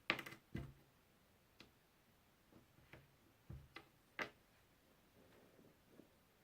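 Puzzle pieces being handled: a scattered series of light clicks and taps, the sharpest right at the start, with quiet gaps between.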